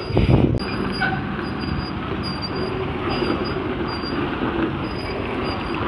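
Heavy container truck running, a dense, steady low rumble with a few knocks in the first half-second and faint, short high squeaks recurring throughout.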